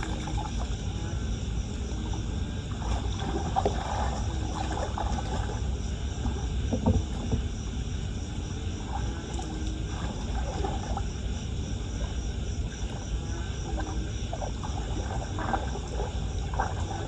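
Floodwater sloshing and splashing in irregular bursts over a steady low rumble.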